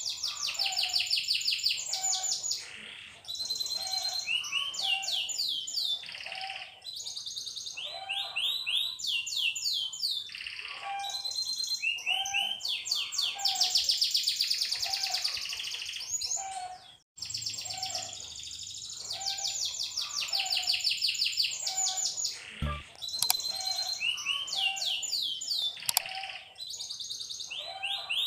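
Domestic canary singing a long song of fast rolling trills, one rapid run of repeated notes after another, with a lower note repeating about once a second underneath. The song breaks off briefly about two thirds of the way through.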